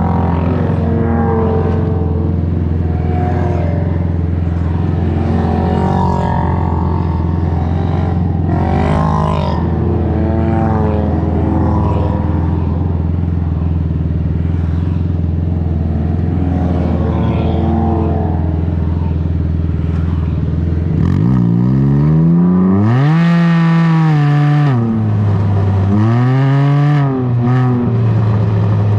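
Can-Am Ryker three-wheeler with an aftermarket BKD Insomnia exhaust running at a steady engine speed, then revving hard, its pitch sweeping up and down several times in the last third.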